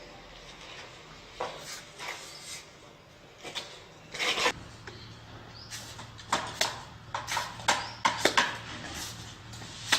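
Scattered knocks, clicks and scraping from hand work with tools and tiles, with a low steady hum that starts about halfway through.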